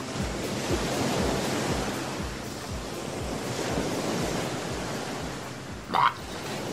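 Surf washing onto a beach: a steady rush of waves. About six seconds in, a short high chirp cuts across it.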